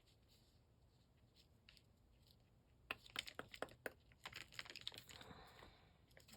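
Faint rustling and light clicks of paper being handled, starting about three seconds in after near silence.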